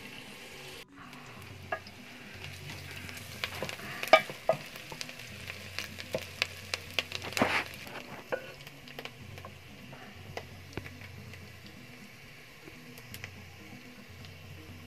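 Boiled kidney beans sizzling as they fry in a metal pot, stirred with a wooden spoon. The spoon knocks and clicks against the pot, most often between about four and eight seconds in.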